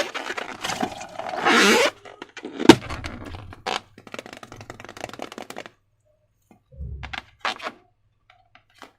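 Hands handling slime and a balloon, with wet squishing and scraping, then a sharp crack with a low thud about three seconds in. Scattered clicks follow, and after a quiet stretch come a soft thud and a couple of short rustles.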